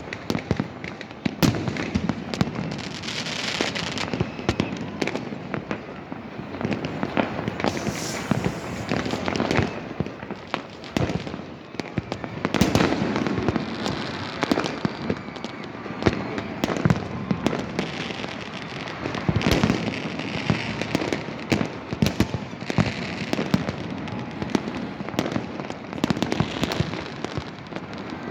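A dense, continuous barrage of fireworks: many sharp bangs and cracks overlapping one another over a steady crackling din, with no gaps.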